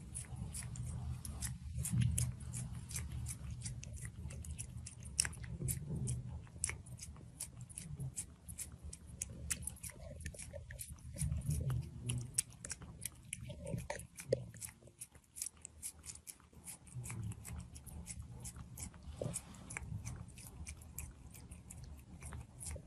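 A pet chewing crunchy food: quick, irregular crunches and clicks throughout, over a low steady background rumble.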